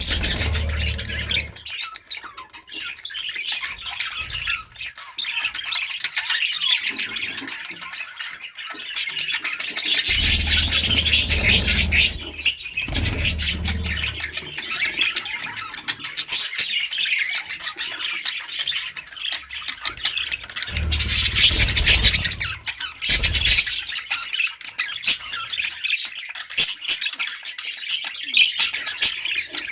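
A flock of budgerigars chattering and squawking continuously in dense overlapping calls. A low rumble comes and goes a few times underneath.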